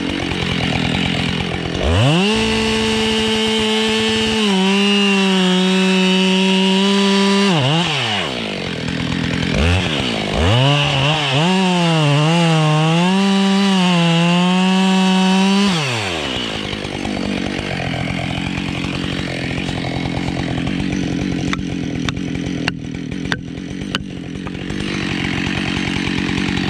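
Husqvarna 572 XPG two-stroke chainsaw revving to full throttle and cutting beech in two passes, its pitch sagging and wavering under load, then dropping back to idle. Several sharp knocks follow while it idles.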